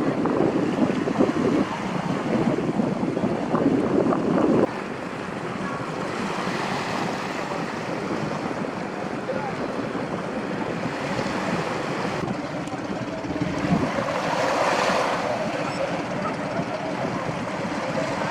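Wind buffeting the microphone over the sound of sea water, cutting off abruptly about five seconds in to a quieter, steady wash of waves.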